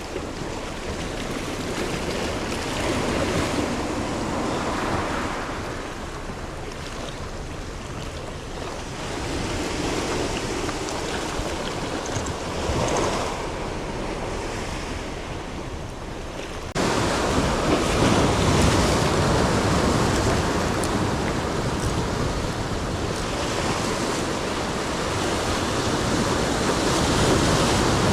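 Rough sea: waves surging and washing in every few seconds, with wind on the microphone. About two-thirds of the way through the sound suddenly gets louder and stays that way.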